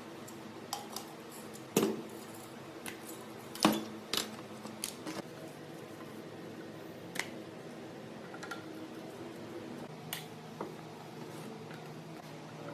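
Scattered sharp metallic clicks and knocks of tools and parts being handled, two of them louder knocks, over a steady low hum.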